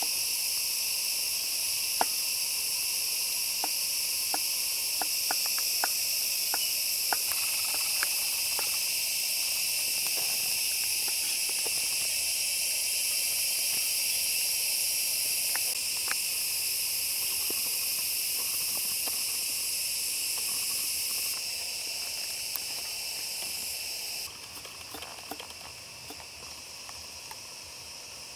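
Steady, high-pitched chorus of insects, with scattered light clicks and knocks through it; the chorus drops in level twice in the last third.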